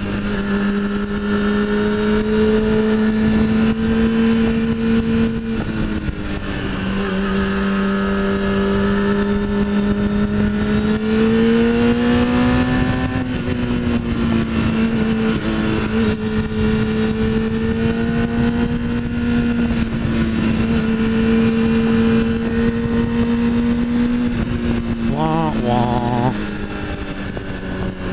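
Sport-bike inline-four engine pulling at steady high revs, its pitch dipping about six seconds in and then rising and falling gently with the throttle, over steady wind noise. There is a brief wavering sound about 25 seconds in.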